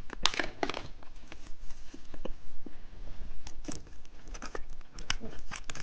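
Plastic candy packaging being handled: scattered sharp clicks and short crinkling rustles, a cluster just after the start and more through the second half.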